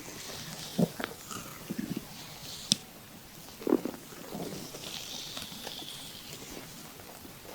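A woman's stomach gurgling in several short low rumbles during an abdominal massage, the strongest a little past halfway. Under it is the soft swish of oiled hands sliding over the skin, and there is one sharp click near the middle.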